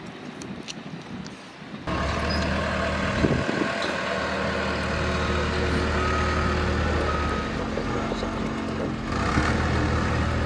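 A railway locomotive running steadily with a low, even hum. It cuts in abruptly about two seconds in, after a quieter stretch of faint ticks.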